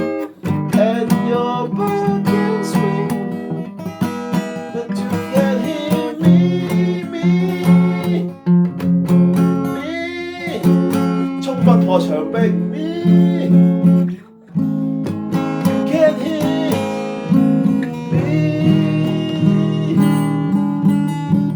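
Acoustic guitar playing an instrumental passage, plucked and strummed, with two brief pauses: just after the start and about two-thirds of the way through.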